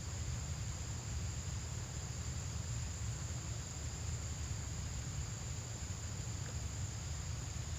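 Insects droning steadily at a high, thin pitch, over a constant low rumble.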